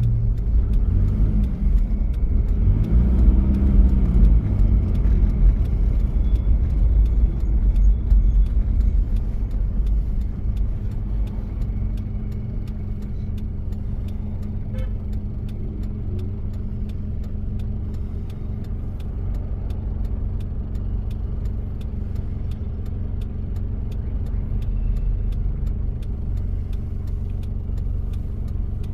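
1993 Toyota Prado's diesel engine heard while driving. For the first several seconds its pitch rises and falls as it revs up and drops back. After that it runs steadier and a little quieter.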